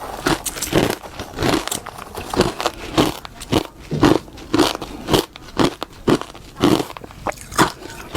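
Close-up crunching and chewing of frost, homemade freezer frost bitten and chewed with a regular crunch about twice a second.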